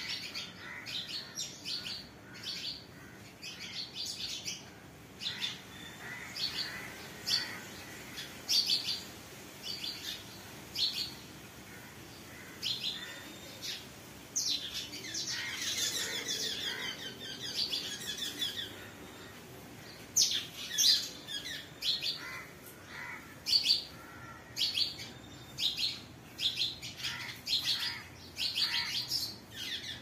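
Songbirds chirping: many short, high chirps in quick runs, with a denser stretch of trilling calls about halfway through.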